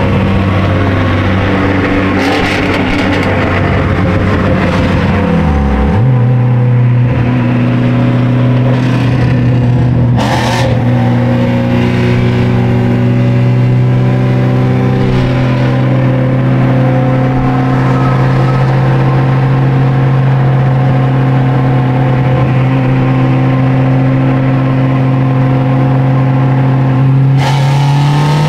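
Turbocharged Dodge Neon's engine running under way. Its pitch jumps up about six seconds in, holds a steady note for some twenty seconds, then climbs again near the end. A brief rattle comes about ten seconds in.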